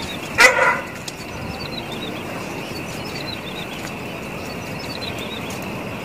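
A small bird gives one short, loud call with many stacked pitches about half a second in. Faint high chirps repeat in the background over a steady hiss.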